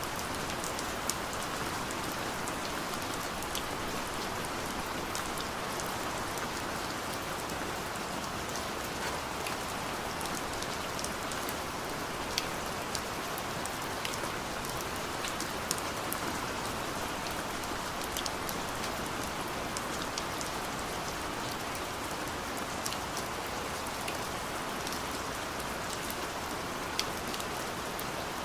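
Steady rain falling on a car's roof and glass, heard from inside the cabin, with scattered sharp taps of single drops.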